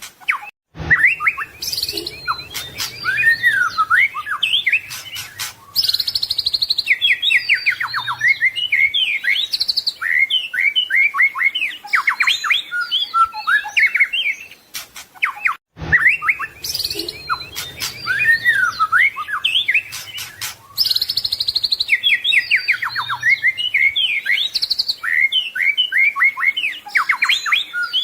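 White-rumped shama (murai batu) singing a fast, varied song of whistles, trills and rattles, packed with mimicked phrases (isian). The same passage of about fifteen seconds plays twice in a loop, with a brief gap where it restarts.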